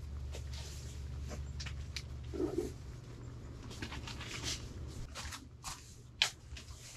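Rustling and scattered clicks and knocks of gear being handled, with one sharp click about six seconds in, over a low steady hum. A brief low whine is heard about two and a half seconds in.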